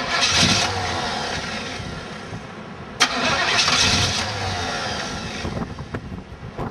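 Monte Carlo SS engine fitted with a Holley 600 carburettor, started twice about three seconds apart. Each time it catches suddenly, runs loud, then dies away over a couple of seconds as the revs fall.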